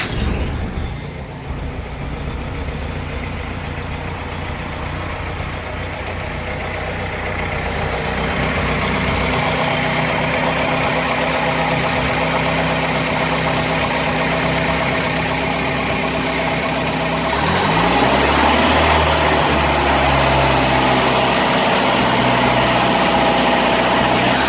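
A 1962 International Harvester Scout 80's 152 cubic-inch four-cylinder engine runs steadily at idle just after being started. About two-thirds of the way through, the revs rise and it holds a faster, louder speed.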